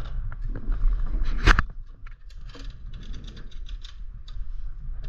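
Clicks and light metallic rattling from a mountain bike's shifters and chain being worked by hand, with one sharp knock about a second and a half in.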